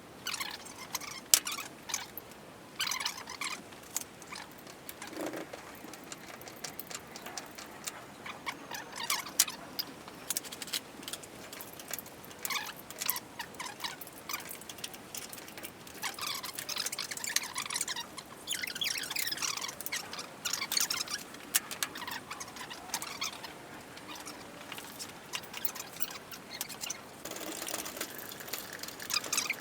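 Busy workshop noise during engine removal: a rapid jumble of sharp clicks and clinks with high squeaks, with no steady running sound.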